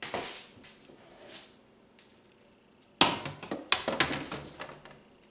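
Cube steak being dredged in flour in a pan. There is a soft rustle and slap near the start, then a louder run of patting and sharp clattering knocks from about three seconds in until near the end.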